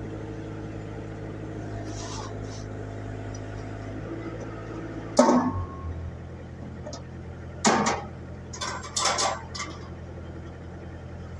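An engine running with a steady low hum. About five seconds in there is a sharp knock and the hum drops to a lower note, followed by a few clattering knocks.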